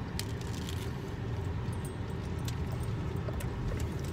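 Biting and chewing a Double Cheesy Gordita Crunch, a soft flatbread wrapped around a crunchy taco shell, with a few faint crunches. Beneath it is the steady low rumble of the car cabin.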